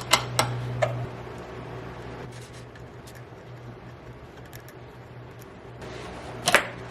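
Quiet handling of small parts: a few sharp clicks and taps over a steady low hum, with a brief loud burst near the end.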